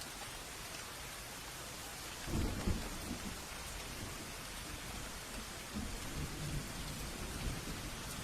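Steady rain falling, with a low thunder rumble breaking in about two seconds in and a second, weaker rumble a few seconds later.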